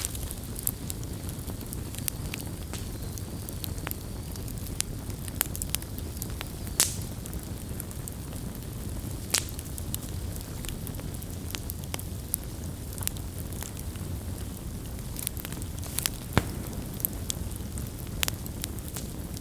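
Wood bonfire burning: a steady low rumble of flames under continual scattered crackling, with a handful of sharper, louder pops. The loudest pop comes late on.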